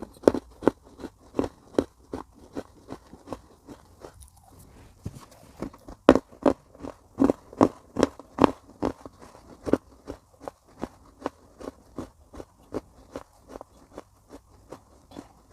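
Close-miked chewing of baked clay pot pieces: a steady run of sharp, dry crunches, about three a second, with a short pause about four seconds in and louder bites a little after.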